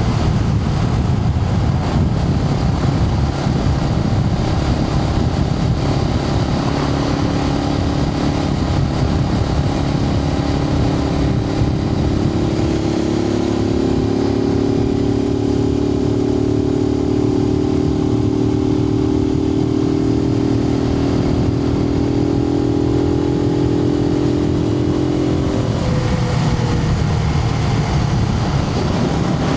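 Suzuki TU250X's single-cylinder engine running under way, heard from a microphone inside the rider's helmet over a low wind rumble. The engine note holds steady for a long stretch, then dips and picks back up near the end.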